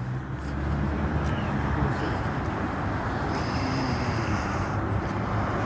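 A vehicle engine idling, a steady low hum, with a brief band of higher hiss from about three and a half seconds in that lasts over a second.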